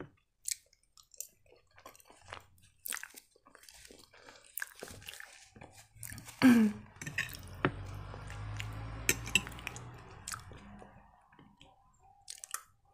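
Close-miked chewing of creamy penne pasta: wet mouth smacks and clicks, with a louder sound falling in pitch about halfway through and a low rumble for a few seconds after it.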